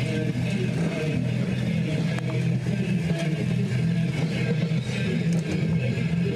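Minivan engine idling steadily, with a single click about two seconds in as the driver's door is opened.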